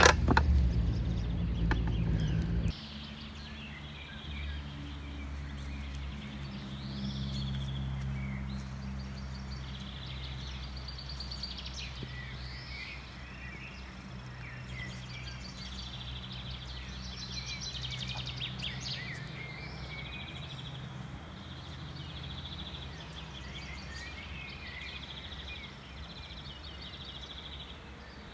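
Songbirds chirping and singing in repeated short phrases over a low steady hum. For the first couple of seconds a louder low rumbling noise with a few clicks covers it, then cuts off suddenly.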